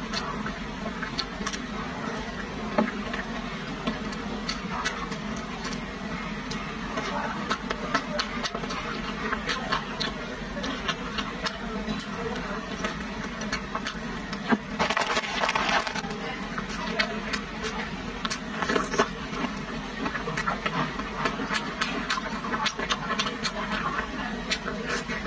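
Close-miked eating sounds: chewing, wet mouth clicks and smacks as skewered tofu and meatballs are eaten, with a denser stretch about fifteen seconds in. A steady low hum runs underneath.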